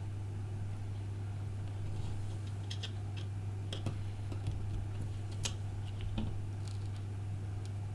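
Irregular light clicks and taps of small repair tools on the iPhone 5's tiny parts and screws, a dozen or so scattered through, over a steady low hum.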